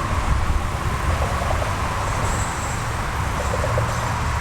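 Wind rushing over the microphone of a moving bicycle, a steady low rumble with road and tyre noise underneath.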